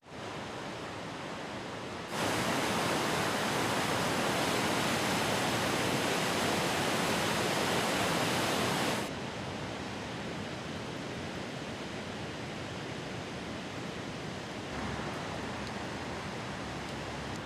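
Steady rushing of fast-flowing water, like a mountain river or waterfall. It gets suddenly louder about two seconds in and drops back just after nine seconds.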